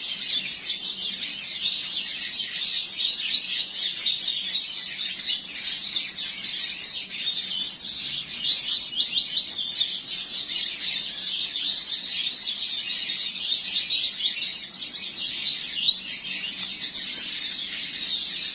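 Double-collared seedeater (coleiro) singing continuously: a fast, unbroken stream of high chirping notes.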